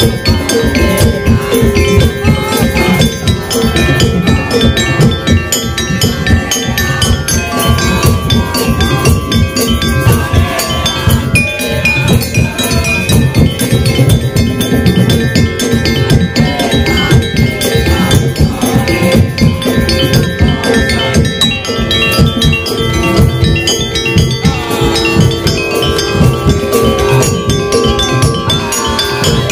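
Madurese daul (tong-tong) music: a loud percussion ensemble of drums, gongs and struck wooden or bamboo instruments playing a fast, dense beat, with a held melody line over it.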